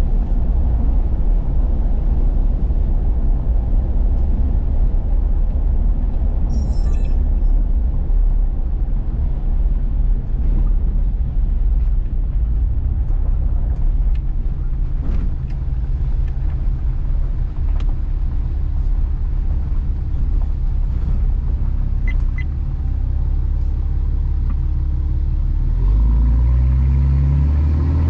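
Truck driving on the road: steady engine and road rumble, with a few faint clicks. About two seconds before the end the engine note climbs as the truck accelerates.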